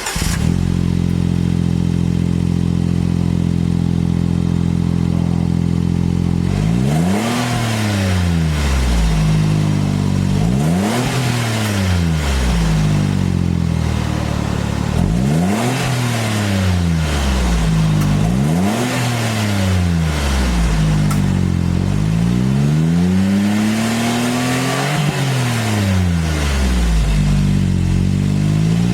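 Suzuki Jimny JB64's turbocharged 660 cc three-cylinder engine through an APIO Shizuka Gozen aftermarket muffler, idling steadily, then revved up and let fall back several times from about six seconds in.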